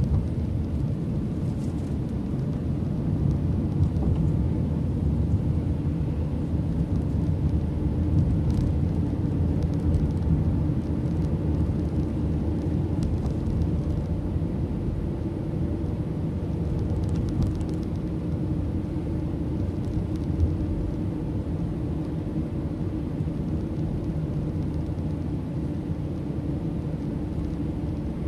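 Steady road and engine rumble of a car driving, heard from inside the cabin, with a few faint ticks.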